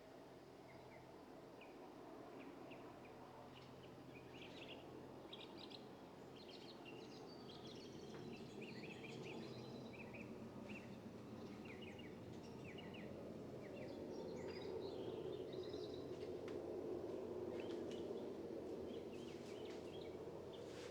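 Small birds chirping and twittering in quick, short calls, over a steady low background rumble that grows louder from about halfway through.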